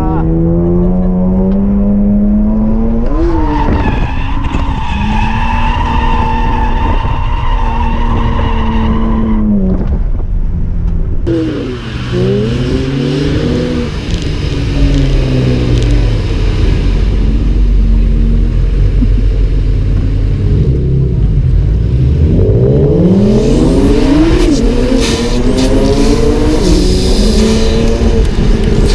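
BMW E46 M3 drift car's straight-six engine revving up and down repeatedly through a drift run, with tyres skidding.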